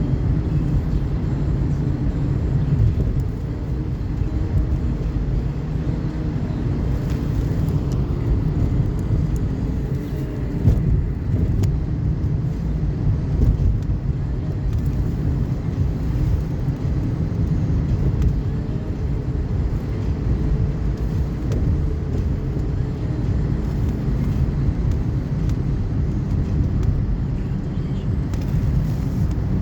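Steady low rumble of a car driving on a snow-covered road, its engine and tyre noise running evenly.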